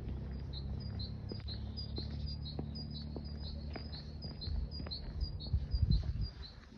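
A small songbird singing a rapid, steady series of short high chirps, about three or four a second, over a low rumble of wind or handling on the microphone.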